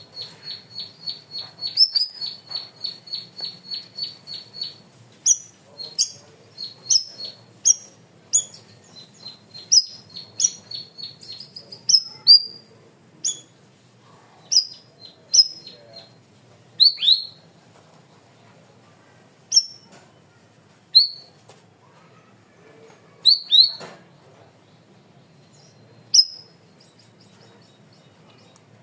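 Cucak rawis (black-crested bulbul) singing: a quick run of short high chips, about four a second, for the first five seconds, then sharp downward-slurred whistled notes roughly once a second that grow sparser, with pauses of a couple of seconds in the second half.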